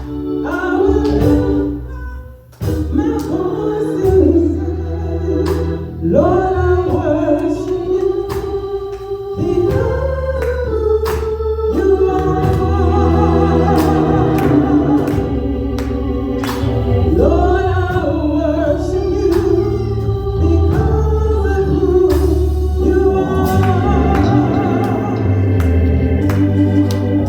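Gospel music: singing over organ accompaniment with a steady bass and drum beat, with a brief drop in level about two and a half seconds in.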